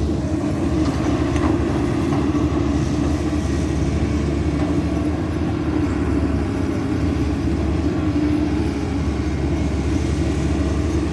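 Caterpillar 320D2 hydraulic excavator's diesel engine running steadily, a constant low drone with no revving.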